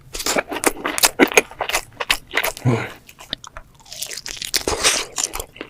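Close-miked eating sounds: crunchy bites and chewing, with a rapid run of irregular crackles and wet mouth sounds.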